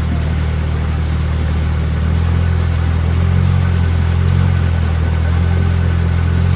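Boat engine running steadily with a low hum, growing a little louder about two seconds in.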